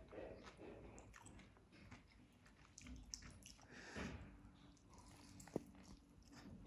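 Faint close-up eating sounds: biting meat off a chicken leg piece of biryani and chewing it, with soft scattered mouth clicks and one sharp click about five and a half seconds in.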